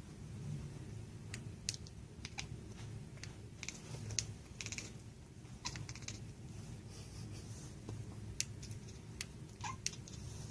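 Irregular light clicks and taps, a cat's claws and paws on a hard floor as it chases a laser dot, over a low steady hum.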